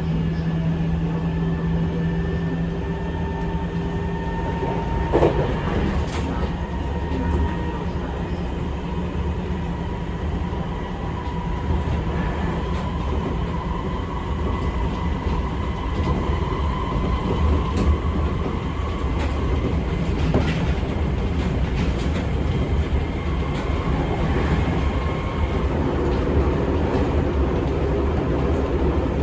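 Seibu 6000-series electric train running at speed, heard from inside the car: a steady rumble of wheels on rail with a faint whine from the Mitsubishi SiC-VVVF traction equipment, and occasional rail-joint clicks.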